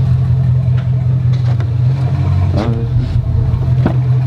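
Chevrolet Silverado SS's 6.0-litre V8 running steadily at low revs, a constant deep hum. A brief sliding sound comes about two and a half seconds in, and a short click near the end.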